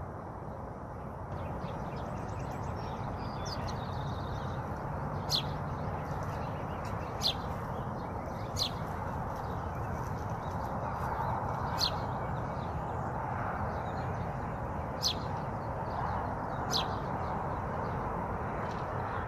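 Wild birds calling: about six short, sharp, high chirps at irregular intervals, with a faint trill early on, over a steady rushing background noise.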